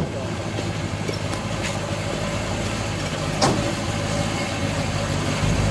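Classic Chevrolet Nova's engine idling with a steady low rumble as the car creeps forward. Two sharp clicks sound, one right at the start and one about three and a half seconds in.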